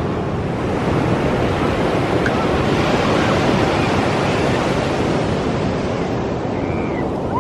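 Pacific Ocean surf breaking and washing up the beach: a steady rush of noise that swells a little in the middle.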